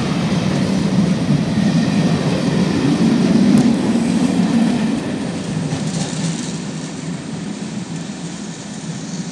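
A departing train's passenger coaches rolling past at close range, a deep steady rumble that fades away about halfway through as the end of the train draws off.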